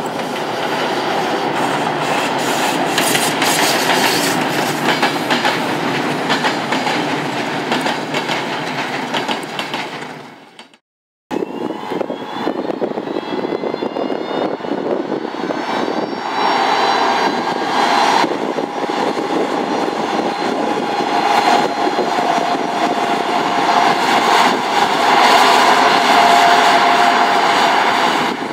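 A passing train's wheels clatter over the rails. After a short cut, an electric locomotive hauls passenger carriages through a station; its whine rises over a few seconds, then holds steady until the end.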